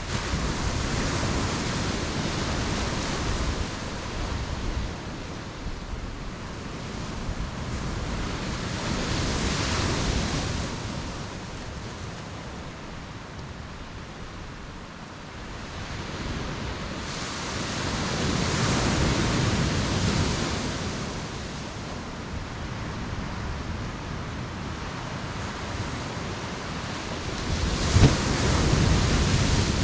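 Ocean surf breaking on a beach and washing back, swelling up roughly every nine to ten seconds. There is a short sharp thump as one wave breaks near the end.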